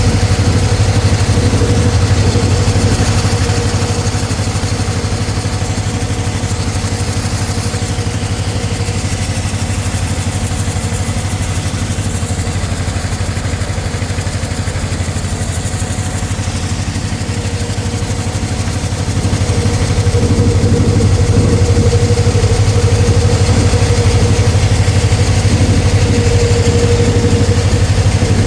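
Engine-driven concrete saw running steadily, a bit quieter for about fifteen seconds in the middle before coming back up.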